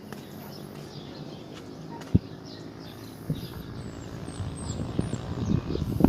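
Outdoor ambience with small birds chirping in short high notes. A sharp thump comes about two seconds in, and low uneven rumbling grows louder toward the end.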